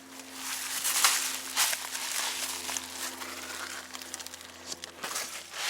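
Rustling and scraping in several irregular bursts as a person crawls under a raised car, over a faint steady hum.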